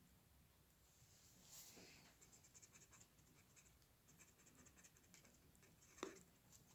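Very faint scratching of a drawing tool on paper during hand drawing: light strokes with a run of quick short hatching strokes, and one sharper tap about six seconds in.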